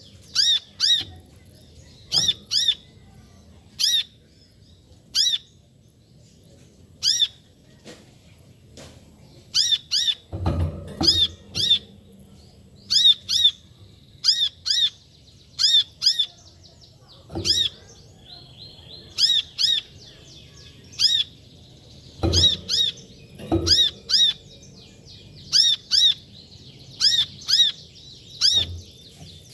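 Brown-throated sunbird giving sharp, high call notes in quick clusters of two to four, a cluster every second or two. A few low thumps come in between.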